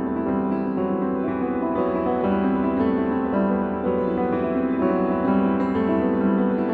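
Solo piano music playing steadily, a calm melody over sustained chords.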